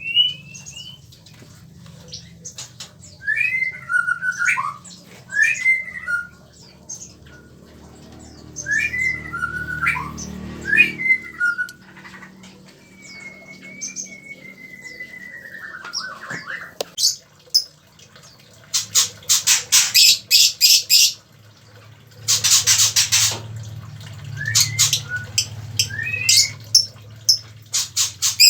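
Caged songbirds calling: clear, gliding whistled notes in the first half, then repeated harsh, rapid squawking calls in the second half.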